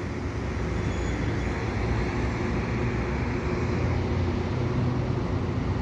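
Steady low hum of a stationary EXO commuter train's locomotive running while it charges its air brakes, mixed with city traffic noise.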